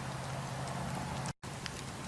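Wood fire burning in a fireplace: a steady hiss with scattered small crackles and pops. The sound cuts out for an instant about one and a half seconds in.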